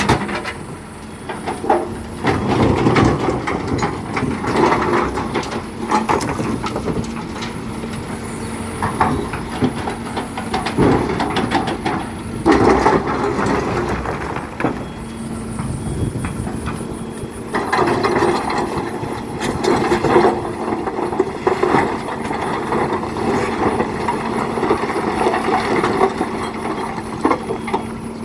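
Excavator loading black stone into a tipper truck: a diesel engine runs with a steady hum and swells in power every few seconds, over irregular clattering and knocking of stone.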